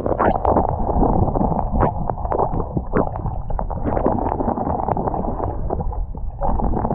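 Blizzard wind blowing hard across the microphone: a loud, steady low rumble broken by irregular pops and flutters from the gusts.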